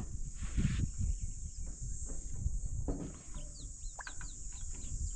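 Outdoor bird calls: a quick run of short chirps in the second half, over a steady high-pitched buzz like insects, with a few low knocks.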